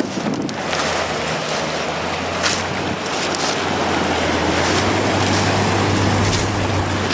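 Strong wind buffeting the microphone in gusts, over ocean surf, with a steady low hum that grows louder from about four seconds in.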